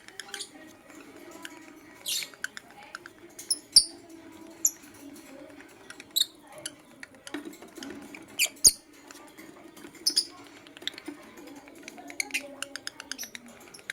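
Lovebird chirping in short, high squeaks and quick chattering runs, with two sharp clicks, the loudest sounds, about four and about nine seconds in.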